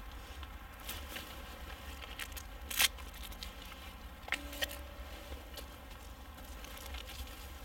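Dry leaf litter and twigs rustling and crackling on the forest floor as a mushroom is picked up by hand, with one sharper crack about three seconds in.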